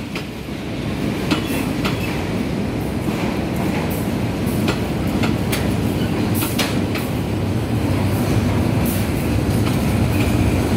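Passenger train coaches rolling past with a steady rumble, their steel wheels clacking at irregular intervals over rail joints.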